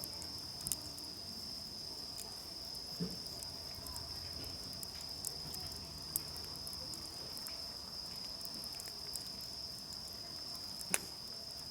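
Steady, high insect chirring, with occasional sharp crackles and pops from a wood campfire; the loudest pop comes near the end.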